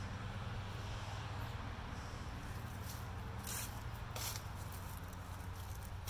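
Outdoor background noise: a steady low rumble, with two brief rustles a little past halfway.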